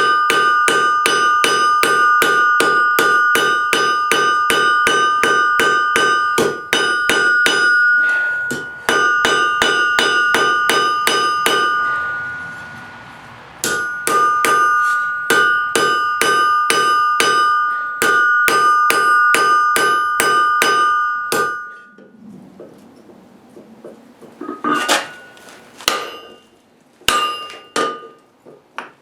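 Hand hammer striking steel on an anvil in a fast, steady rhythm of about four blows a second, each blow ringing. The hammering pauses briefly twice, stops about three-quarters of the way in, and a few separate strikes follow near the end.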